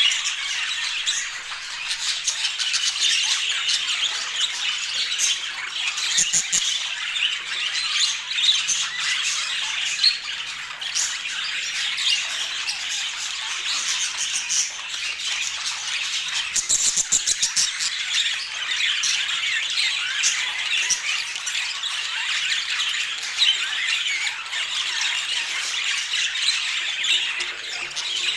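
A flock of budgerigars chattering and warbling continuously, with short bursts of rapid clicking about six and seventeen seconds in.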